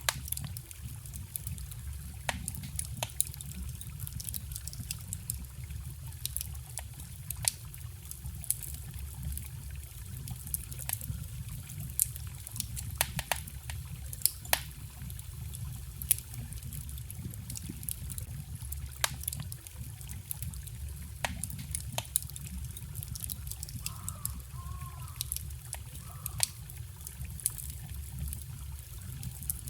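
Wood campfire crackling with scattered sharp pops over the steady low rush of a forest stream.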